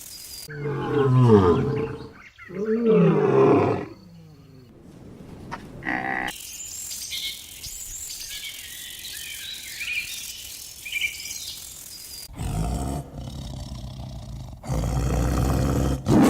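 Two loud, drawn-out calls from a large animal, each a second or more long, followed by a stretch of faint high bird chirps and then a low rumbling noise near the end.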